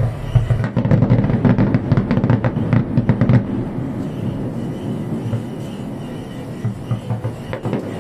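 Fireworks display: a dense run of crackling bursts for the first few seconds over a continuous low rumble of explosions, which carries on after the crackling dies away.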